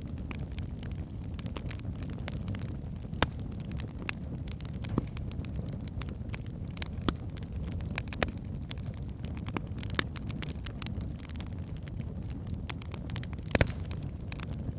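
Wood fire burning in a fireplace: a steady low rumble of flames with irregular sharp crackles and pops from the logs, a few louder snaps among them, the loudest near the end.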